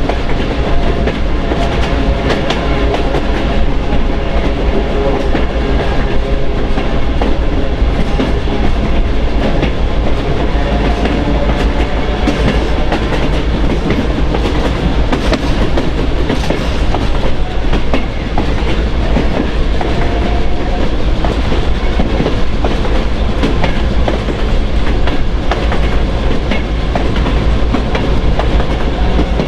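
Train running steadily along the track, its wheels clicking over the rail joints.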